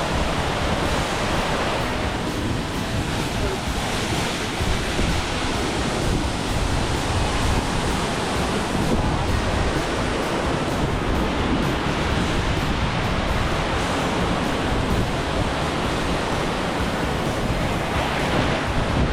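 Waterfall's steady rush of falling water, with wind buffeting the microphone.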